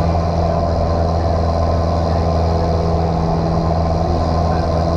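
Single-engine light airplane's piston engine and propeller droning steadily inside the cockpit.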